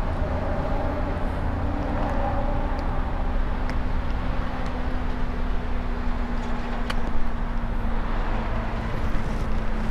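Steady road and wind noise from riding an e-bike, with a constant low hum underneath and a single click about seven seconds in.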